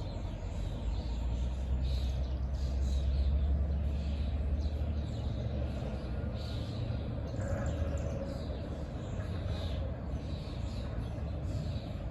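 A bird chirping repeatedly over a low steady rumble that swells about two to four seconds in.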